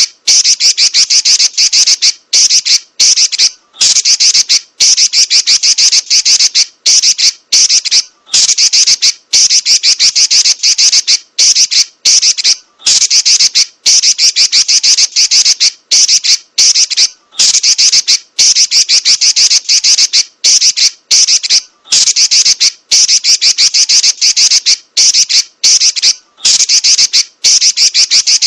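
Female red-billed leiothrix (Pekin robin) giving a rapid, high-pitched rattling chatter, repeated in runs of one to two seconds with brief breaks between them.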